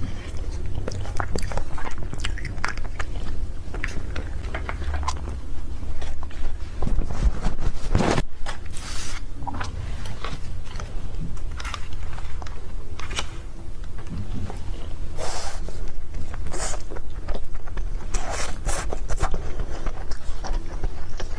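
Close-miked eating of Korean-style cake: steady chewing and biting, with frequent small irregular mouth clicks and smacks.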